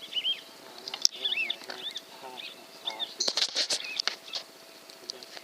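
A series of short, high, bird-like chirps repeating every half second or so, with a burst of sharp clicks and rustling about three seconds in.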